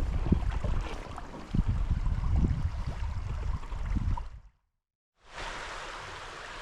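Wind gusting on the microphone over a flowing stream, with a few light knocks. It fades out to a moment of silence, then the stream's steady rushing comes in alone.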